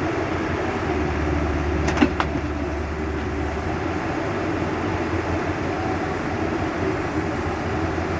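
Excavator's diesel engine running steadily with a low hum, with one sharp metallic knock about two seconds in.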